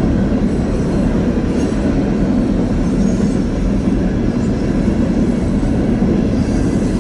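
Empty coal train rolling past close by: a loud, steady rumble of steel wheels on rail from the empty hopper cars, with the rear pushing locomotive coming up.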